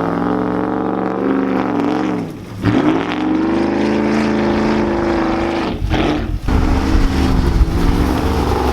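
Lifted pickup truck's engine revving hard under load in deep snow. The revs fall away and climb back about two and a half seconds in, dip again around six seconds, then hold at a lower rumble.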